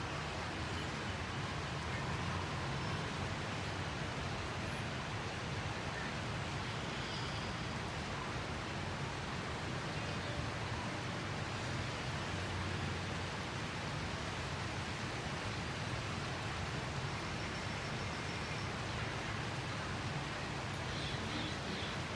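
Steady outdoor background noise, an even hiss with no single event standing out.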